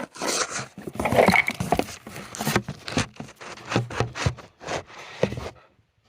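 Close handling noise: irregular scraping, rubbing and knocks that stop about five and a half seconds in.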